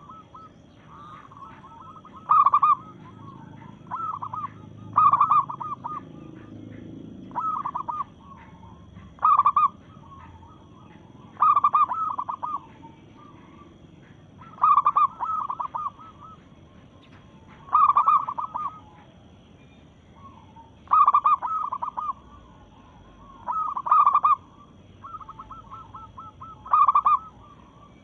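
Female zebra dove (perkutut) cooing: short, loud rolling coos repeated about every two to three seconds, with softer coos between them. It is the call a hen uses to draw a male.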